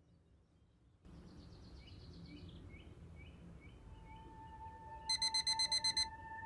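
A low ambient rumble with a series of short bird-like chirps. A steady tone comes in, and near the end an alarm clock beeps rapidly and loudly for about a second.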